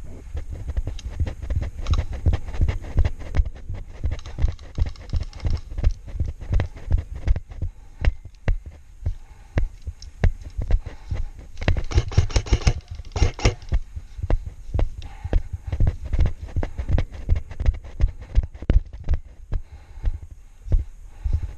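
Footfalls and gear jostling against a body-worn camera mic as an airsoft player runs, heard as rapid low thuds about two to three a second. A short cluster of sharper cracks comes about twelve seconds in.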